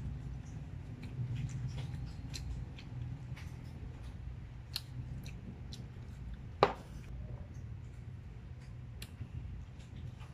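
A person chewing food with the mouth closed: soft, irregular wet mouth clicks and smacks. One sharp, louder click comes about six and a half seconds in.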